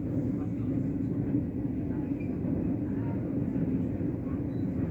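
Steady low rumble of a train, with no distinct clicks or changes.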